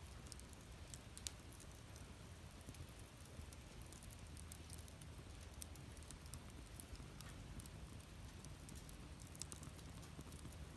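Wood campfire burning, with scattered faint crackles and pops over a low, steady rumble.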